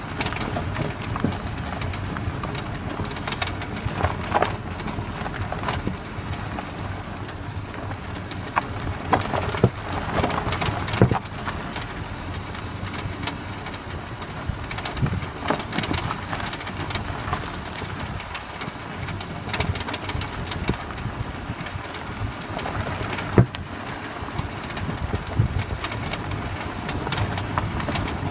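Volkswagen Tiguan on the move, with steady road and tyre noise and irregular sharp knocks from the front suspension, the loudest about two-thirds of the way through.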